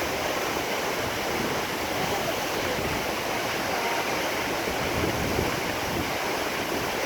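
Nachi Falls, a tall single-drop waterfall, giving a steady, even rush of falling water.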